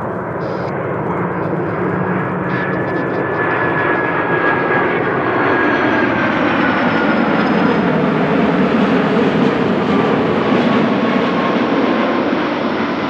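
Jet airliner's engines passing close by: a loud rushing roar that builds toward the middle, with a thin whine sliding slowly down in pitch as the aircraft goes past.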